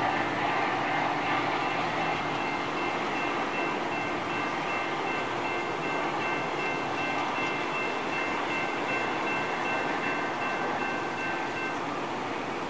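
Metra commuter train on the UP West Line running along the tracks, a steady rumble slowly fading. A few high steady tones ring over it and stop about a second before the end.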